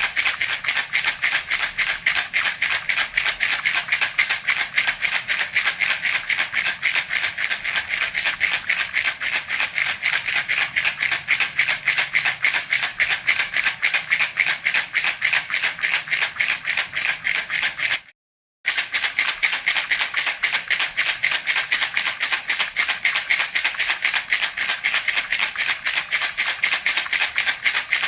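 Handheld baby rattle (jhunjhuna) shaken steadily and rapidly, its beads giving an even, fast rattle. It cuts out for about half a second about two-thirds of the way in, then resumes.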